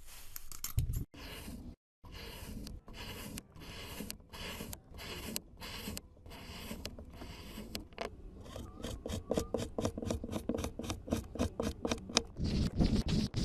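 Repeated scraping strokes, about two a second, quickening to about four a second for the second half.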